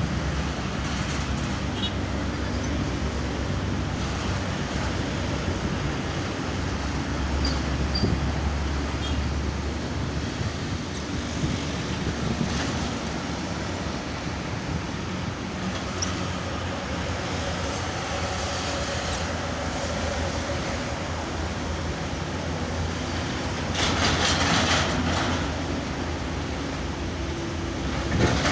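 Steady road traffic noise from vehicles on a toll road, with a louder vehicle passing about three-quarters of the way through.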